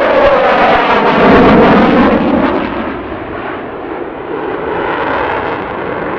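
Eurofighter Typhoon's twin EJ200 jet engines as the fighter flies past, a loud rushing noise with a sweeping, phasing shift in tone. It peaks about a second or two in, then eases to a steadier, quieter rumble.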